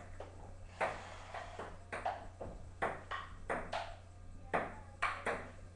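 Ping pong ball clicking back and forth off paddles and the table in a rally, about ten sharp clicks spaced roughly half a second apart.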